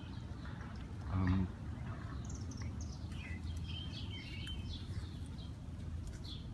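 Small birds chirping in short, repeated high calls over a steady low outdoor rumble.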